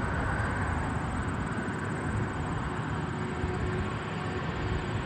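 Jet engine noise from an Airbus A380's four engines: a steady rumble and hiss with a faint whine above it.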